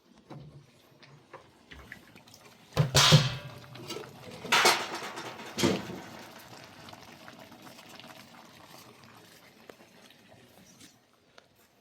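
Water being poured, in three loud bursts about three to six seconds in, then a softer trickle that fades out.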